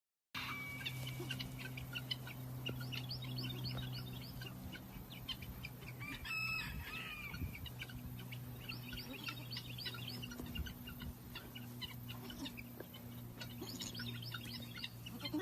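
Chicks peeping in rapid, overlapping high chirps, with one louder call about six seconds in, over a steady low hum.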